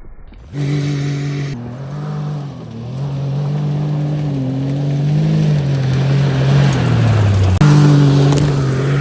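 Off-road buggy's engine running under load as it drives a rough, wet track, its note wavering up and down. The engine comes in loud about half a second in, sags lower, then jumps back up suddenly near the end.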